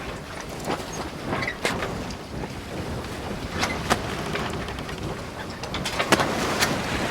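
Steady rush of wind and water with wind buffeting the microphone and sharp splashes now and then, the strongest about four and six seconds in.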